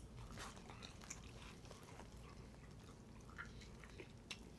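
Faint chewing with soft, scattered mouth clicks.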